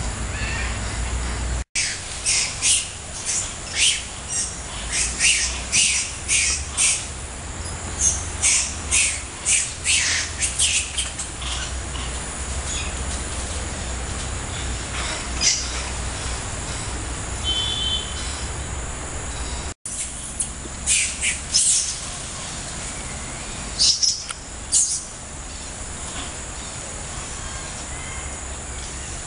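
Birds chirping: short, high calls repeated in quick runs, in two bouts, over a steady high-pitched hum.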